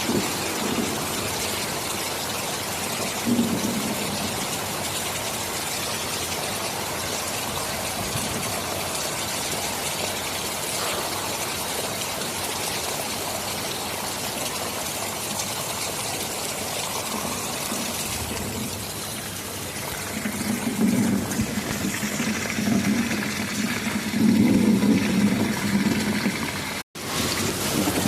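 Steady heavy rain hissing, with a low rumble of thunder building in the last third. The sound cuts out for an instant near the end.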